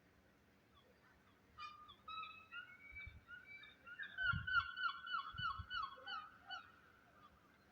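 A bird calling: a run of short pitched notes that quickens about halfway into a rapid series of about five notes a second, then stops.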